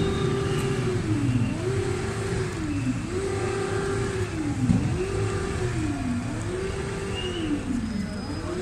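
Škoda Fabia police car's siren sounding: a high note held, then a quick dip in pitch and sweep back up, repeating about every second and a half to two seconds.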